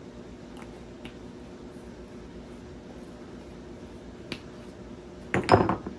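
Kitchen handling noises over a steady low hum: a few light clicks, then a short, loud run of clicks and clatter near the end.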